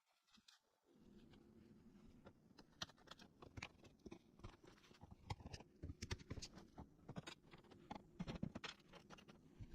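Faint scattered clicks and taps of hand work on car body parts, over a low steady hum that comes in about a second in.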